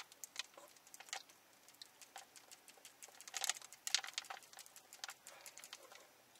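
Quiet eating sounds: soft mouth clicks and smacks of chewing noodles, thickest about three and a half to four and a half seconds in.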